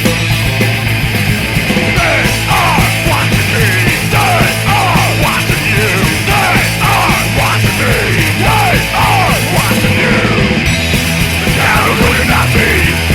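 Loud punk rock recording: a full distorted band playing, with yelled vocals.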